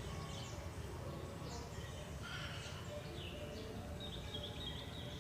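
Small birds chirping, short high calls scattered throughout and a longer fluttering trill near the end, over a steady low background noise.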